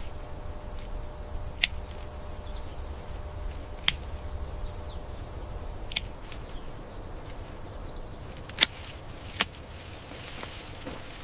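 Five sharp clicks at irregular intervals over a steady low rumble; the loudest comes at about 8.6 s.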